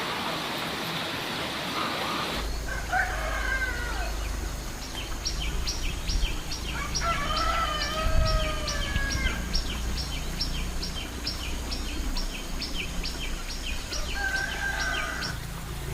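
Roosters crowing three times, each crow a second or two long, over a high chirping repeated about twice a second. A steady hiss fills the first two seconds before the crowing begins.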